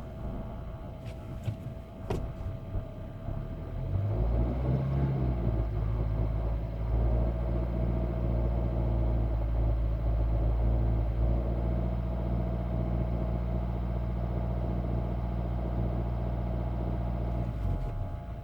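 Car engine running: a few sharp clicks in the first couple of seconds, then about four seconds in a loud, steady low engine note sets in and holds, dropping away just before the end.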